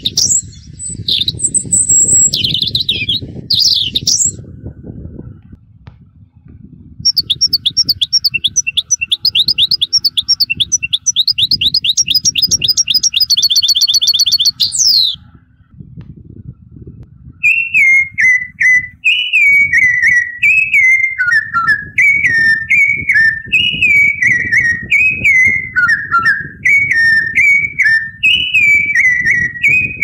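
Recorded birdsong from a ringtone track presented as a tui. It opens with varied whistles and chirps, then from about seven seconds a fast, even trill of high notes lasts about eight seconds. From about seventeen seconds a falling two-note phrase repeats, with faint high ticks above it, all over a low rumbling background noise.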